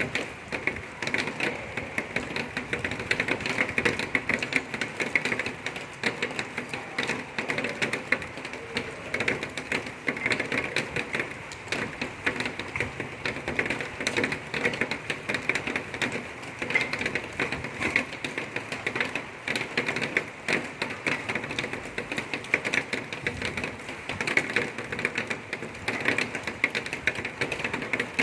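Water-well drilling rig running, with a fast, even clatter that holds steady throughout.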